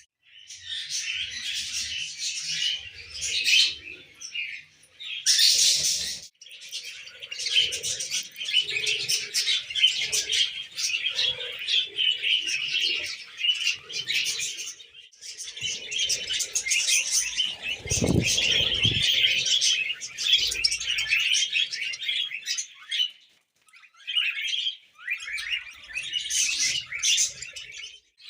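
Small pet parrots chattering and chirping in fast, continuous warbling runs, broken by a few short pauses. A low thump comes about eighteen seconds in.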